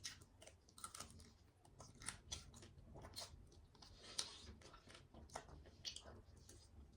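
A person chewing food, with irregular wet smacks and short clicks of the mouth, several a second.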